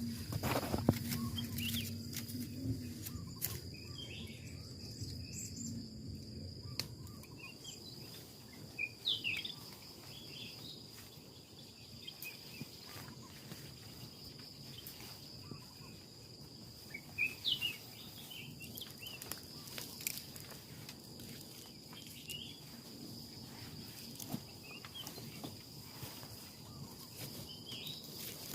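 Outdoor forest ambience: a steady high-pitched insect drone throughout, with short bird chirps now and then and a few scattered clicks.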